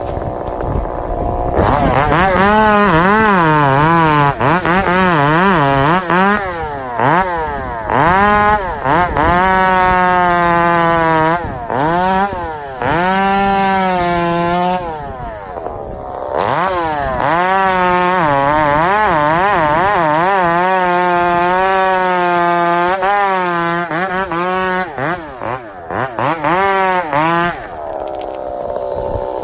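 Two-stroke chainsaw running at high revs and cutting wood, its pitch repeatedly dipping and recovering as the chain loads up in the cut. It eases off briefly about 16 seconds in, revs back up, and drops to a lower level near the end.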